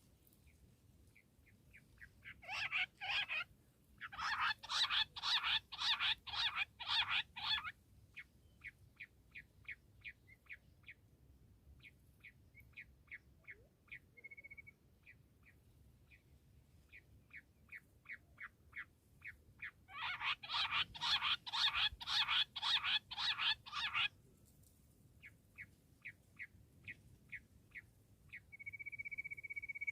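Bush quail calling: bouts of loud, rapidly repeated notes, about three a second, with fainter series of thin notes between them. A steady whistle-like tone comes in near the end.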